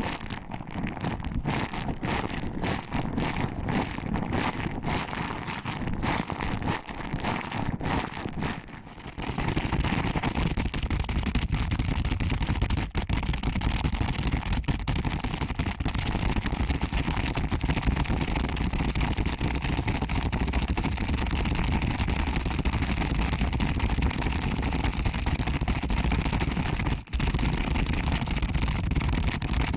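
Close ASMR pinching and rubbing of the ears of a binaural ear microphone. For about the first nine seconds it is crackly and crinkly, with many small clicks; after that it turns into a denser, muffled, continuous rubbing.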